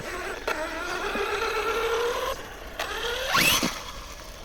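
Electric motor and gears of an RC crawler truck whining under throttle in snow. The pitch climbs slowly for a couple of seconds, then about three seconds in it rises steeply to a high whine as the motor spins up.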